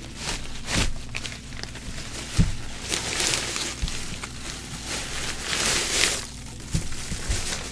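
Rustling and a few light knocks from cards and their packaging being handled, loudest for a few seconds in the middle.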